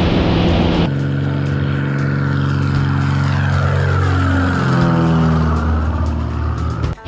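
Propeller airplane engine running steadily. About a second in, the sound switches abruptly to a section whose pitch lines sweep up and down and cross each other, then it cuts back to the steady engine just before the end.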